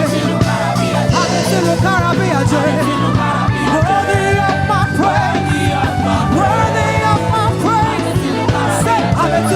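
Live praise-and-worship music: a band playing with a steady beat and sustained bass notes while voices sing.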